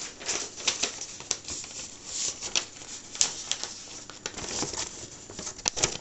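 Irregular kitchen handling noises: a run of light clicks and knocks with rustling.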